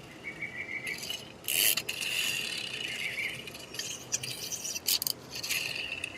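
Plastic toy helicopter handled and moved about by hand, rattling and scraping in uneven bursts with a few sharp clicks near the end.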